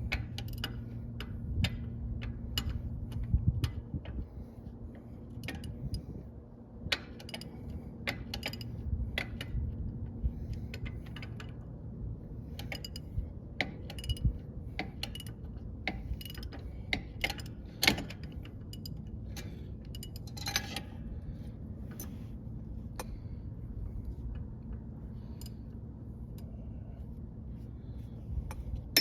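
Irregular metallic clicks and clinks of hand tools on brake hardware, a socket ratchet among them, over a steady low hum.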